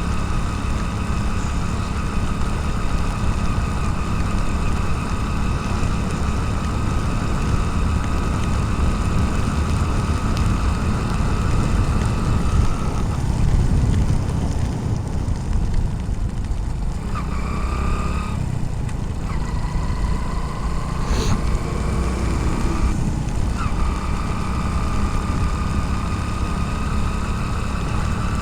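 Motorcycle riding in rain, heard from a helmet-mounted camera: a steady engine rumble with wind and road noise, and a thin steady whine that drops out about halfway through and returns near the end.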